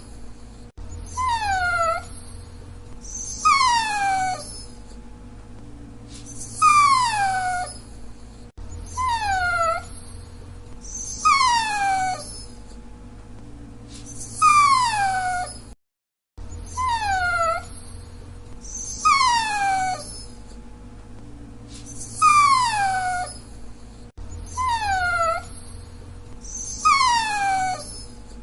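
Dachshund whining: a string of short whines, each falling in pitch and lasting about a second, repeating every two to three seconds.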